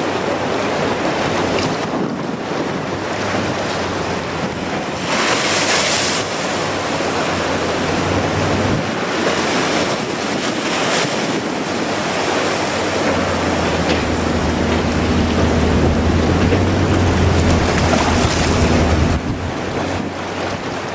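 Strong wind buffeting the microphone over surf, a continuous rushing noise with a louder hissing gust about five seconds in. In the second half a steady low hum sits beneath it and cuts off shortly before the end.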